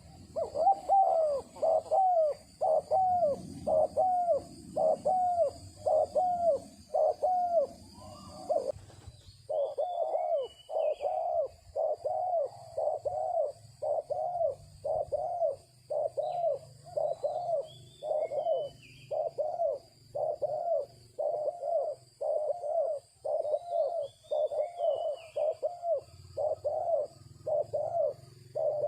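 A dove-like bird calling in a long series of short, even coos, about two a second, with a brief break about nine seconds in. Fainter, higher chirps from another bird come in now and then.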